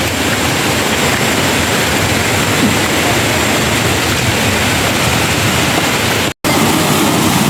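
Steady, loud rushing noise that cuts out completely for a moment about six seconds in.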